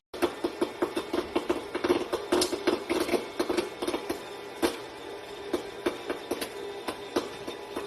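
A rapid, irregular series of light clicks and taps, several a second, thinning out after about four seconds.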